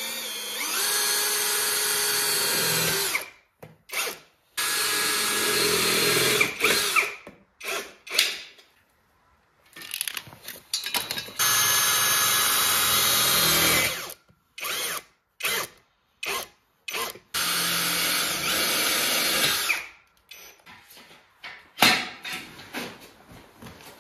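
Power drill driving screws, running in four spells of two to three seconds each with short blips and pauses between them.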